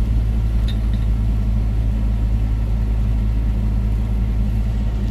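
Suzuki Jimny's engine running steadily, a constant low hum, with a freshly replaced thermostat now holding the coolant temperature stable.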